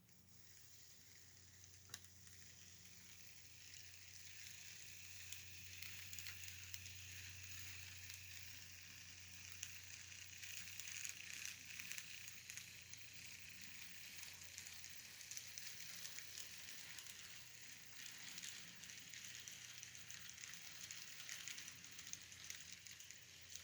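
Faint crackling hiss over a steady low hum, close to near silence.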